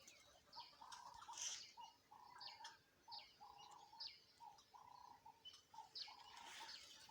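Faint chorus of several wild birds: one bird repeating a short, low note about twice a second, with higher chirps and whistles from other birds over it.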